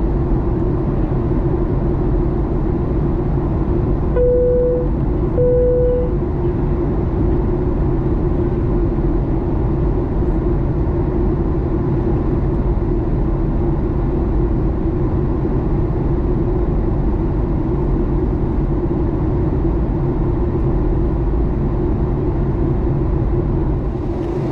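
Steady in-flight cabin noise of a Boeing 737 MAX 9 with CFM LEAP-1B engines on descent: an even rush of airflow with a steady drone under it. About four seconds in, two short steady tones sound a little over a second apart.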